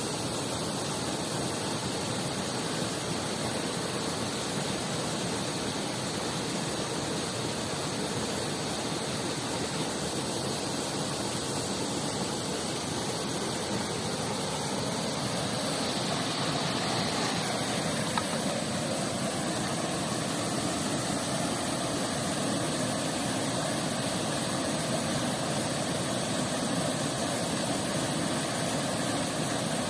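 Steady rushing of a river and waterfall, an even wash of water noise, with a single sharp click a little past halfway.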